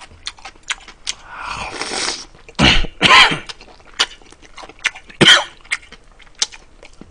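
Close-miked eating: wet chewing and lip-smacking clicks as meat is gnawed off a braised pork rib, with three loud, short breathy bursts about three seconds in and again after five seconds.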